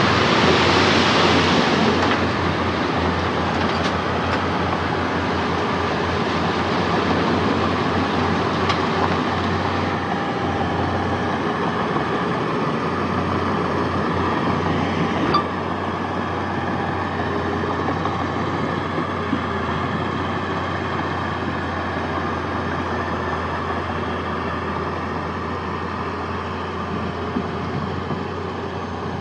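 Heavy diesel earthmoving machinery running steadily with a continuous mechanical clatter, loudest in the first couple of seconds. A single sharp knock comes about halfway through.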